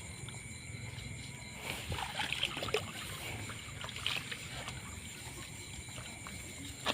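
Light sloshing and small splashes of water, with a few soft knocks scattered through, over a steady low hum.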